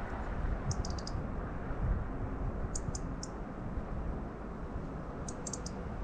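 Small songbirds calling off-picture: very short, high-pitched chirps in three quick clusters of three or four notes, about two seconds apart, over a steady low background rumble.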